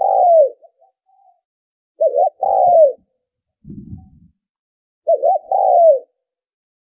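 Spotted dove cooing: a call that ends just as the sound begins, then two more full calls about three seconds apart, each two short notes followed by a longer note that falls in pitch. A faint low rumble sounds briefly between the second and third calls.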